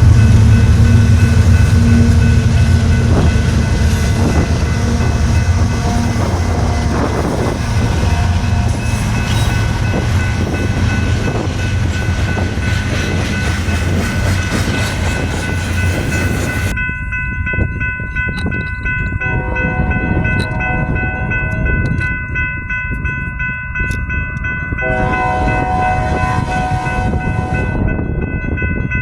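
Diesel-hauled train passing. A loud, low locomotive rumble is strongest at first and fades over the first half, with steady high horn tones sounding throughout. About seventeen seconds in, the rolling hiss drops away suddenly.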